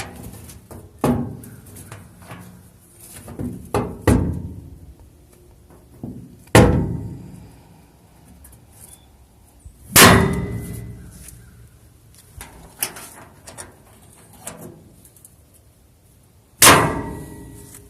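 Heavy metal clangs from a square hay baler's mechanism, each ringing out briefly: three loud ones, about a third of the way in, halfway and near the end, with lighter metallic knocks in between.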